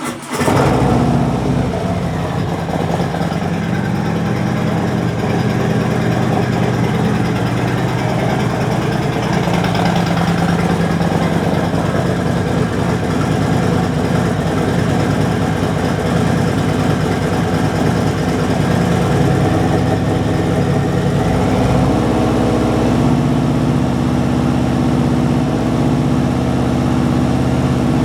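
2019 Harley-Davidson Sport Glide's stock Milwaukee-Eight 107 V-twin running through aftermarket Tab Performance slip-on mufflers with Zombie Baffles, idling steadily and loud. The note changes about twenty-two seconds in.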